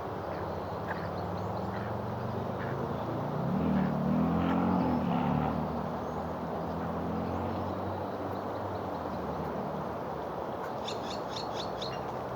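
Steady outdoor background noise. About four seconds in, a low hum rises and then falls in pitch over a couple of seconds. Near the end a bird gives a quick run of high chirps.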